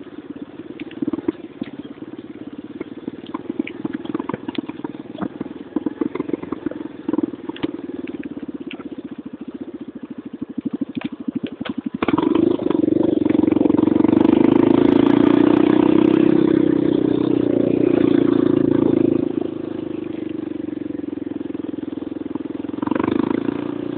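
Motocross dirt bike engine running with rapid, uneven popping at low revs, then opened up hard about halfway through and held loud for several seconds before easing back, with another brief rise near the end.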